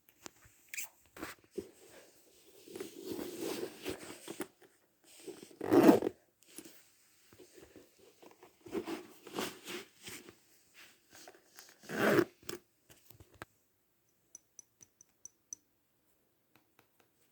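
Household handling noises: rustling, scraping and zip-like strokes, with two louder bumps about six and twelve seconds in and a quick run of faint high ticks near the end.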